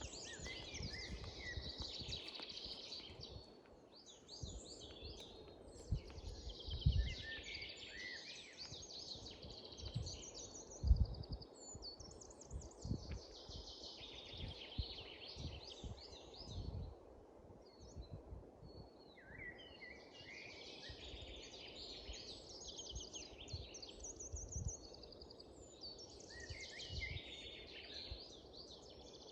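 European goldfinch singing: about five bouts of fast, tinkling twittering, each a few seconds long with short pauses between. Low thumps on the microphone come through under the song, the loudest about 7 and 11 seconds in.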